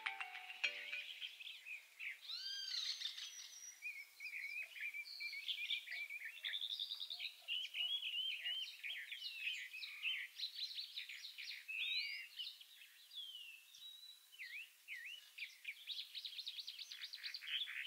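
Birds chirping and whistling: many short, quick calls and trills, some rising and some falling, overlapping with one another.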